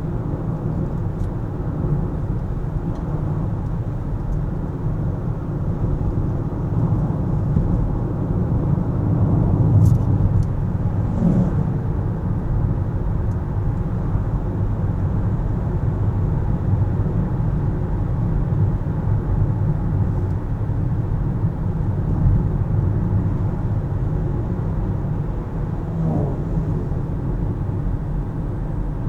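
Steady low rumble of a car driving: engine and tyre-on-road noise, with a few faint ticks about ten seconds in.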